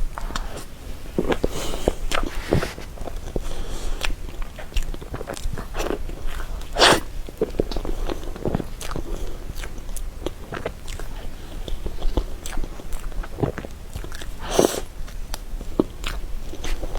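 Eating sounds of soft cream cake being bitten and chewed: irregular wet mouth clicks and smacks, with two longer, louder smacks about seven seconds in and near the end.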